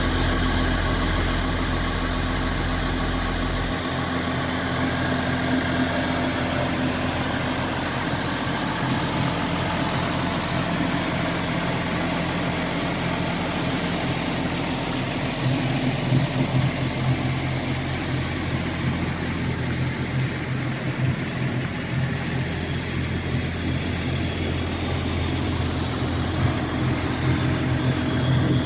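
2010 John Deere 6830 tractor's six-cylinder diesel engine running at idle.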